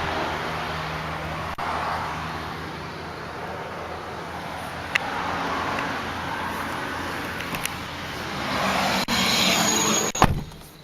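Steady road traffic noise from a running vehicle, swelling near the end. It is cut off by a single car door thumping shut, which closes off the outside sound.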